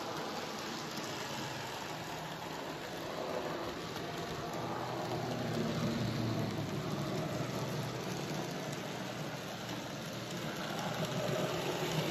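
N gauge model train running on the track: a steady small electric motor hum and wheel rumble, swelling a little around the middle and again near the end.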